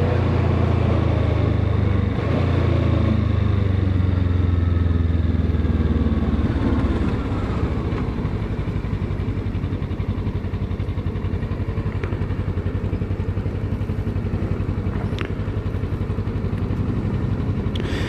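Kawasaki ER-6n's parallel-twin engine running under way with wind rush. It is louder for the first several seconds, then settles into a steadier, slightly quieter cruise.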